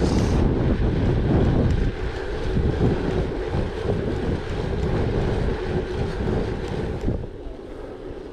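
Wind buffeting the microphone over the rolling noise of a gravel bike, gusty and loud, easing off somewhat about seven seconds in.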